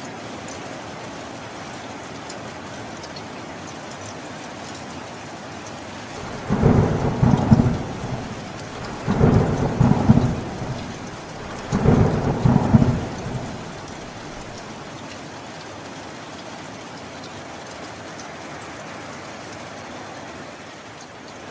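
Steady rain with three loud rolls of thunder in quick succession, starting about six seconds in and fading out near the middle, each roll lasting a second or two.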